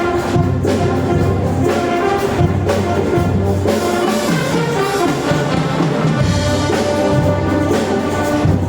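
Brass band playing: trumpets and trombones carry sustained chords and melody over a low bass line, with percussion hits throughout.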